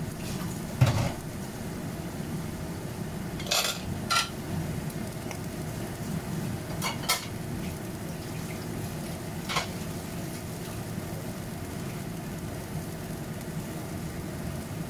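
Okra sizzling in hot oil in a wok: a steady frying noise broken by a handful of short, sharp pops of spitting oil, the loudest about a second in.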